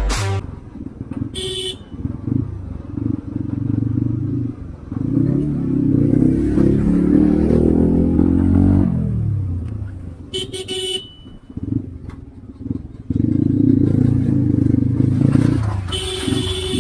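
Motorcycle engine running in traffic, revving up and easing off. Short horn honks come about a second and a half in and again near eleven seconds, and another horn sounds near the end.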